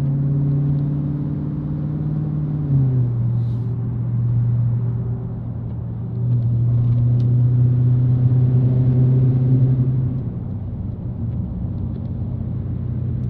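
Dodge Challenger Hellcat's supercharged V8 running steadily under way, with its pitch stepping down slightly about three seconds in and the engine getting louder for a few seconds from about six seconds in.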